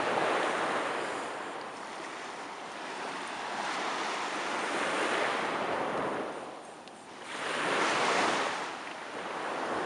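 Ocean surf breaking and washing on the shore in repeated swells, the loudest about three quarters of the way through, with some wind on the microphone.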